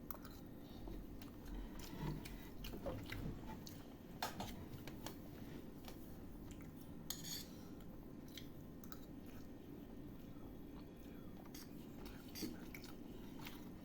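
Faint clinks of cutlery against plates, with chewing, as people eat; scattered short clicks.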